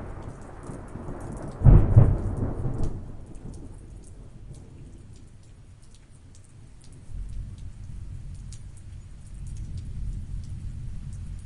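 A thunderclap cracks about two seconds in and rumbles away over the next second, over steady rain with scattered raindrop ticks. Softer low rumbles of distant thunder return in the second half.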